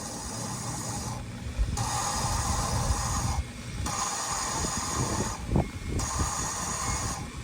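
A drill spinning a valve of a Jeep 4.0L six-cylinder head against its seat to lap it in with valve grinding compound. It runs in four bursts with short pauses, over a gritty grinding of the compound between the valve face and the seat.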